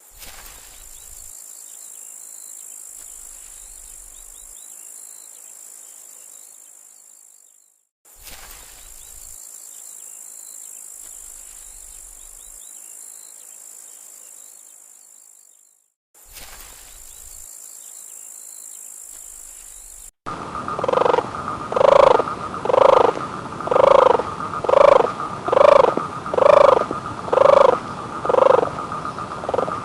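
A steady high-pitched hiss of insect-like buzzing with faint chirps, cut off and restarted twice. About twenty seconds in it gives way to a loud animal call repeated about once a second.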